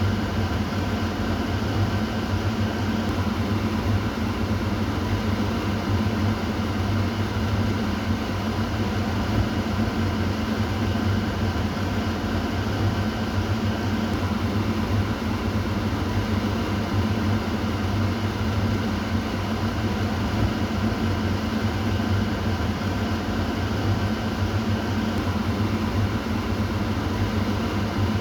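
Kitchen exhaust fan running steadily: a constant low hum with an even whooshing of air.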